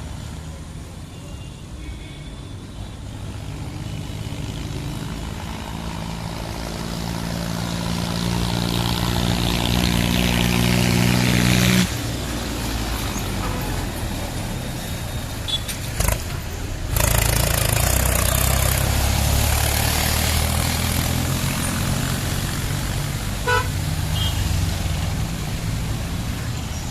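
Tractor engines running in street traffic, one growing steadily louder as it comes closer before the sound cuts off abruptly, then another engine running at a lower pitch. A short horn toot sounds near the end.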